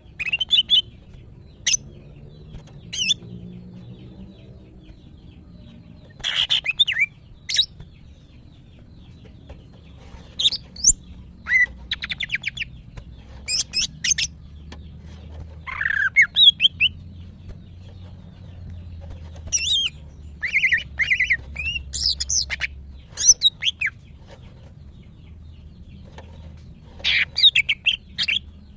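Female green leafbird (cucak ijo) in breeding condition calling: scattered bursts of short, high chirps and quick twittering phrases with pauses between them, the calls a female in heat gives to draw a male.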